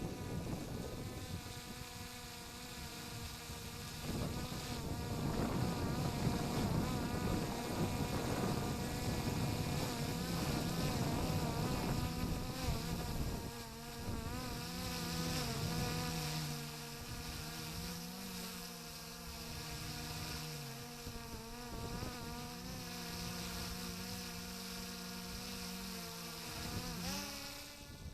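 DJI Mini 4 Pro's propellers buzzing as it hovers close by. The whining buzz wavers up and down in pitch as the motors correct for gusts. Wind rumbles on the microphone in the first several seconds, and near the end the pitch rises briefly before the buzz drops away.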